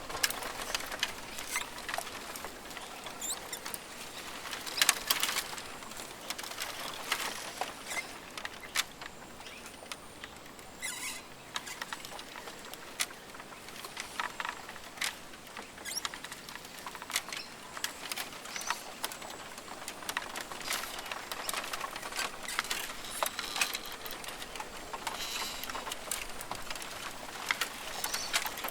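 Forest ambience: a soft steady hiss with frequent small crackles and rustles scattered throughout, and a few brief high chirps here and there.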